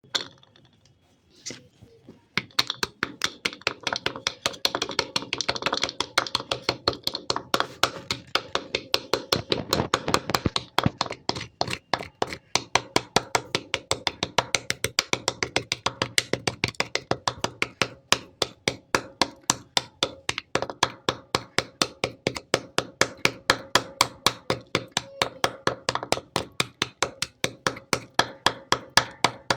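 Slate pencils being crunched, with sharp, crisp crunches repeating in an even rhythm of about three a second.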